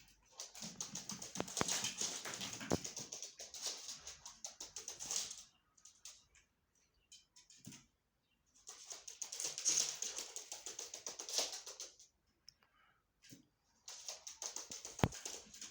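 Chukar partridge chicks making rapid, high-pitched ticking sounds in three spells, with short pauses between them.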